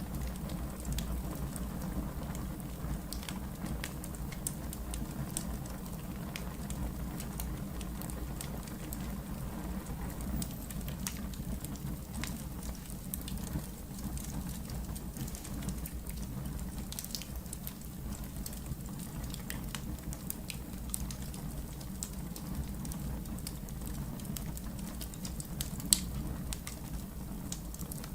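Fire burning in a fireplace: a steady low rumble with scattered crackles and small pops, and one sharper pop near the end.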